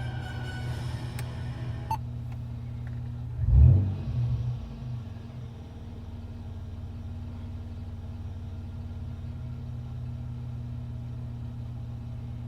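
Supercharged Toyota 3.4 L V6 idling steadily, blipped once about three and a half seconds in and settling back to idle a second or so later. No ticking is heard: after the restart the tick has not yet come in.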